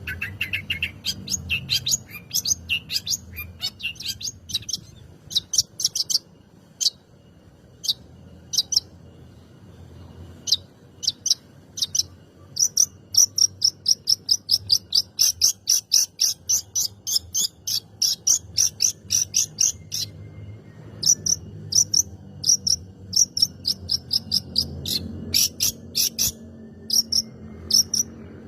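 Long-tailed shrike singing: quick runs of sharp, high-pitched chirps, some in fast rattling series, with short pauses between the runs.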